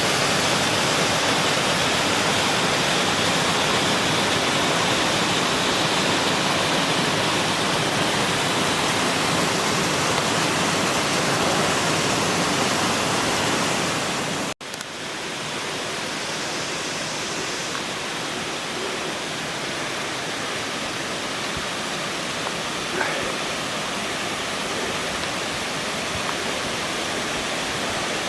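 Rushing water of the All Saints Waterfalls cascades, a steady noise of falling water. About halfway through it cuts out for an instant and comes back a little quieter.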